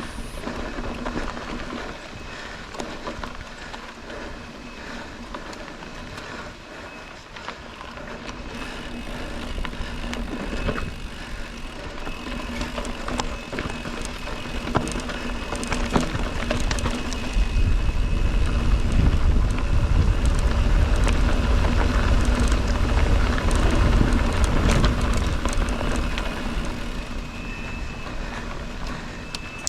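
Mountain bike riding on a dirt trail: tyre noise with clicks and rattles over bumps, and wind buffeting the microphone that builds to a heavy low rumble about halfway through, then eases off near the end.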